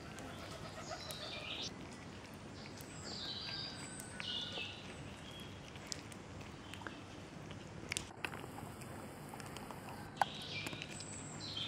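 Birds chirping in short bursts, with a few sharp clicks over steady low background noise.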